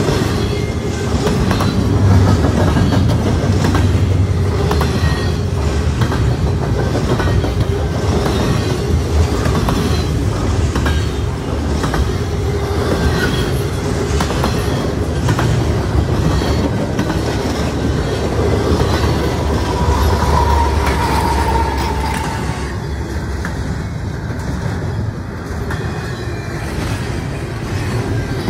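Freight train of double-stack container cars rolling past at steady speed, the steel wheels clattering continuously over the rail joints and the crossing.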